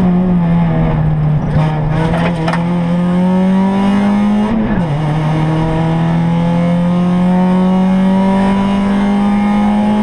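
Rally car engine heard from inside the cockpit, pulling under load with the revs climbing steadily. About halfway through, the pitch drops sharply once as it shifts up a gear, then climbs again. A short cluster of clatters comes around two seconds in.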